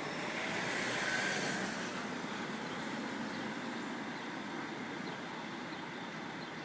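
Diesel coach engine idling steadily while parked, left running rather than switched off. A swell of hissing noise rises and fades about a second in.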